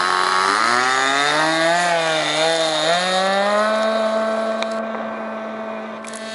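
Model airplane engine buzzing as the throttle changes: its pitch dips and rises over the first three seconds, then holds a steady higher note that fades a little toward the end.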